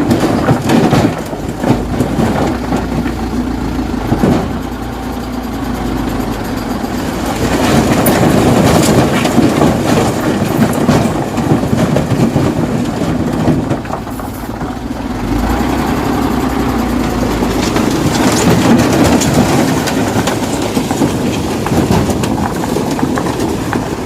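Dump truck engine running under way, with knocking and rattling through it. The level swells and eases several times.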